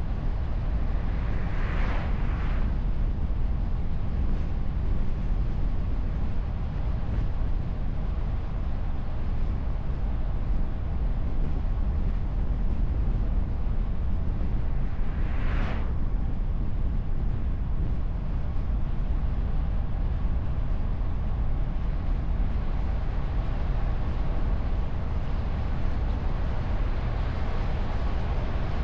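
A moving car's steady wind and road rumble, picked up by a microphone on the bonnet behind a wind muff. Two brief whooshes stand out, about two seconds in and again about halfway through.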